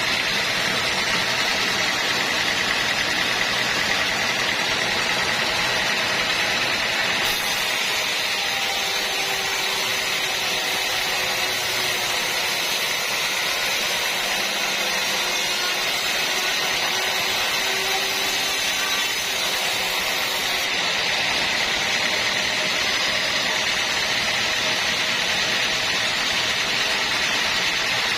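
Sawmill machinery running steadily: a loud, even mechanical noise with a constant high whine and no distinct strokes or impacts.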